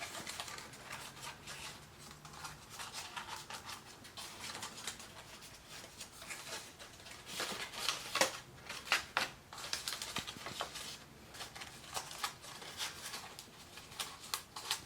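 Cardstock paper being handled and worked by hand: faint rustling and crinkling with scattered light clicks, busier about eight to ten seconds in.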